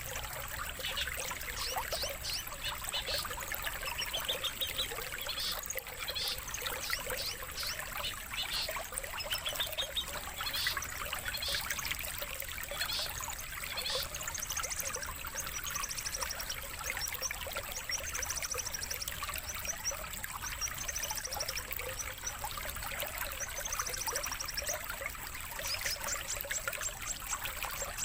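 Recorded songbird chatter and rapid trills from a long-tailed shrike lure and contest-bird master track, laid over steady trickling water.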